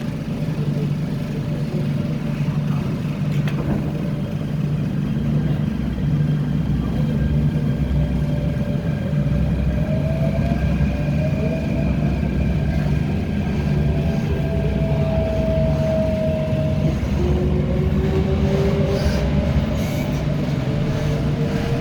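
Korean-built MTR K-Train electric multiple unit running between stations: a steady low rumble of the wheels on the track, with the traction motors' whine slowly rising in pitch as the train gathers speed.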